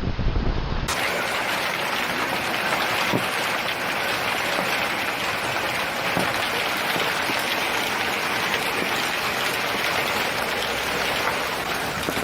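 Heavy rain falling in a steady, even hiss. About a second in, a brief low rumble cuts off abruptly, giving way to the rain.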